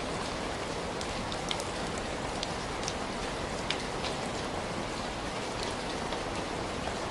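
Steady rain falling, an even dense hiss with scattered sharp ticks of individual drops.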